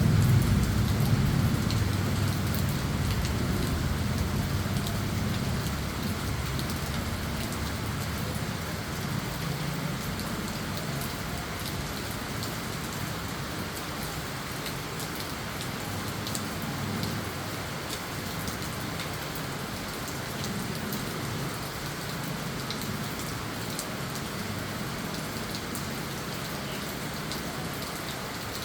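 Steady tropical monsoon rain falling and pattering on surfaces, with fine drop ticks. A low rumble of thunder dies away over the first few seconds.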